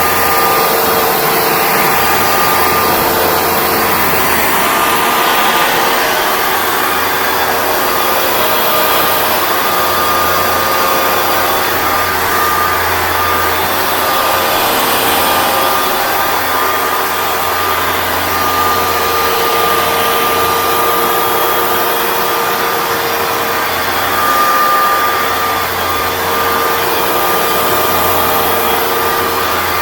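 Hoover Dual Power Max Pro (FH51010) upright carpet cleaner running steadily: an even rush of suction with a steady motor whine.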